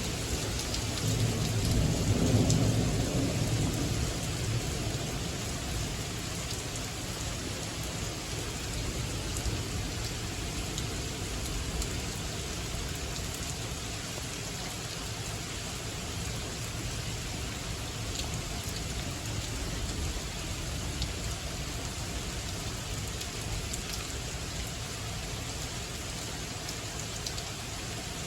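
Steady rain falling during a thunderstorm, with a roll of thunder rumbling up about a second in and fading away within a few seconds.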